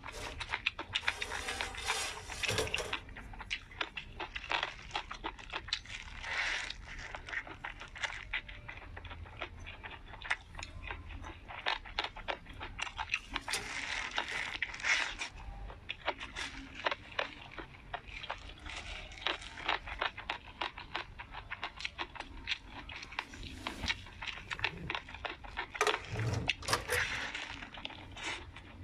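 A person chewing food, with a dense run of small wet mouth clicks and smacks and a few louder bursts of chewing.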